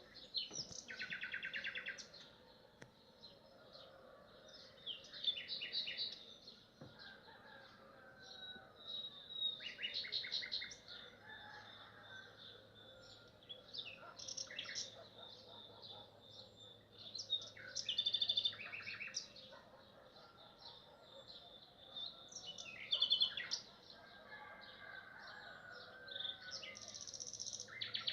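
Nightingale singing: short phrases of about a second each, mostly fast rattling runs of repeated notes, about seven of them spaced a few seconds apart, with fainter whistles and chirps in the gaps.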